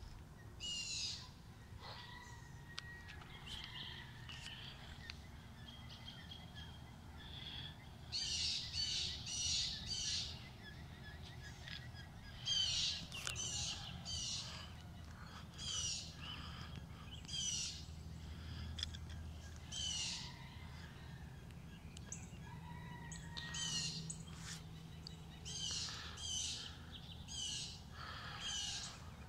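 Songbirds singing: bright, high, down-slurred notes, often in quick runs of three or four, repeating every second or two, over a faint low hum.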